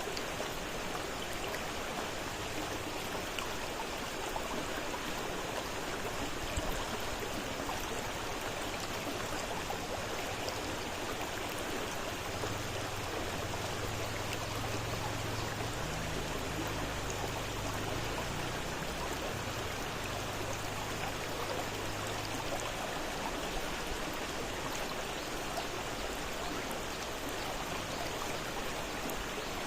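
Fast-flowing river water running steadily, with an even rushing sound. A low hum rises underneath it from about twelve seconds in and fades out a little after twenty seconds.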